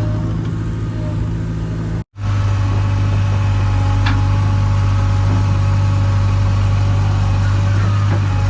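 Heavy diesel engine running steadily at a low, even speed. The sound cuts out completely for a moment about two seconds in, then the engine resumes.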